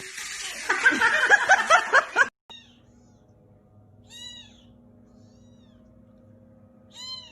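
A quick run of loud, rising squealing cries that cuts off abruptly after about two seconds. Then, over a faint steady hum, a cat meows twice in short, high-pitched calls, the second near the end.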